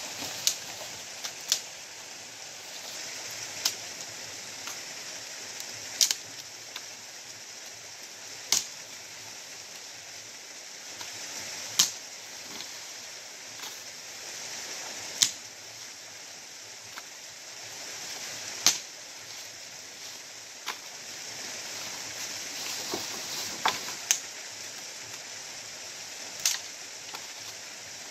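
Steady rush of a stream or small waterfall, with a sharp click every two to three seconds.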